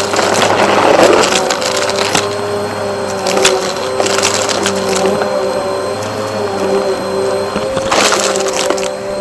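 Vacuum cleaner running with a steady motor hum while it sucks up crunchy debris, which crackles and rattles through the nozzle. The crackling is heaviest in the first second or so and again around eight seconds in.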